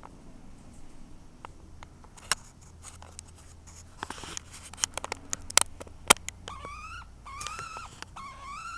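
Scattered clicks and taps, then in the last few seconds a baby Princess of Wales parrot calling: four short, rising, squawky calls.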